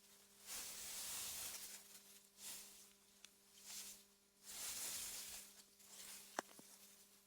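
Wind through meadow grass, rising and falling in soft gusts every second or two, over a faint steady low hum. A single sharp click sounds about six and a half seconds in.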